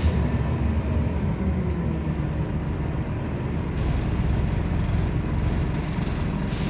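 Scania CN270UB city bus under way, heard on board: a steady low engine and road rumble with no strong engine note. A brief hiss comes about four seconds in.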